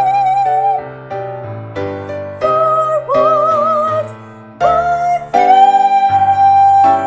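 A soprano voice singing the melody with vibrato over piano accompaniment, climbing to a higher note in the middle and ending on a long held note.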